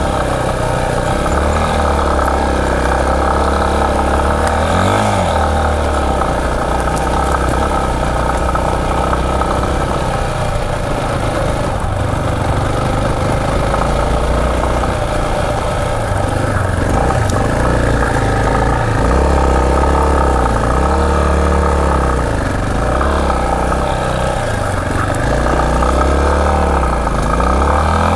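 Yamaha Serow 250's air-cooled single-cylinder four-stroke engine running under load as the bike is ridden up a dirt forest track. Its pitch wavers up and down as the throttle changes.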